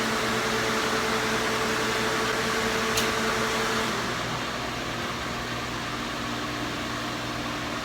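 Steady whirring hum of dyno-room ventilation fans, with a sharp click about three seconds in; one of the hum tones stops about four seconds in, and the noise drops away right at the end.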